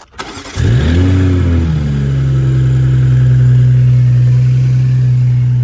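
BMW M340i's turbocharged 3.0-litre inline-six starting, with a newly fitted aftermarket air intake: a brief crank, the revs flaring up about half a second in and falling back, then settling into a steady idle.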